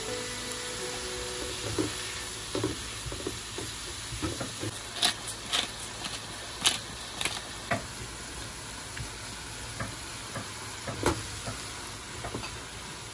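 Vegetables and onion sizzling steadily in a hot frying pan while a spatula stirs them, with scattered scrapes and taps of the spatula against the pan.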